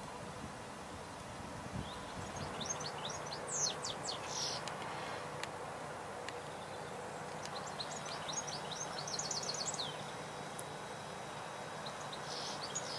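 Small songbirds chirping: a scatter of quick high notes a couple of seconds in, then a rapid run of falling notes near the middle, over a steady outdoor background hiss.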